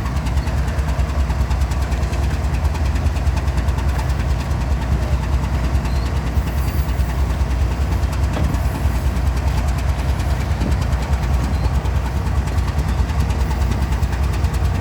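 Diesel-electric locomotive engine idling: a steady low rumble with a fast, even beat.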